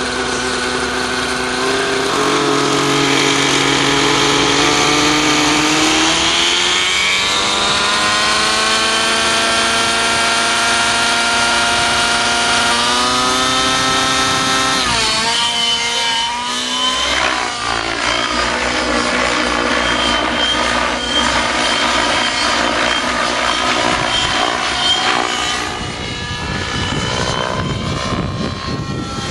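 Glow-fuel (nitro) engine of a radio-controlled helicopter, fitted with a GP-Exhaust tuned pipe, running hard in flight. Its pitch climbs about a quarter of the way in, swoops sharply up and down around the middle, then holds fairly steady.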